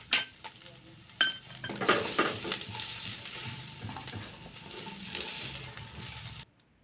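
Onion and capsicum pieces sizzling in hot mustard oil in a nonstick kadhai while a slotted spoon scoops them out, with a few sharp clicks of the spoon against the pan in the first two seconds. The sizzling cuts off abruptly near the end.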